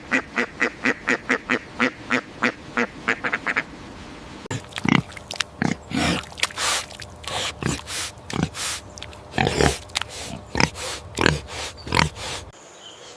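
Animal calls: a fast, even run of short calls, about six a second, for the first three and a half seconds. After a short pause comes a slower, irregular series of calls that stops abruptly near the end.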